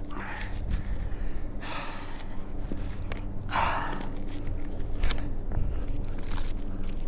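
Heavy breathing, four deep breaths about a second and a half to two seconds apart. Under them runs the low, steady hum of a chainsaw idling.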